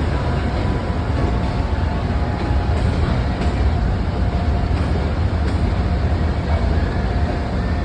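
A train running with a steady low rumble and a faint, steady whine over it.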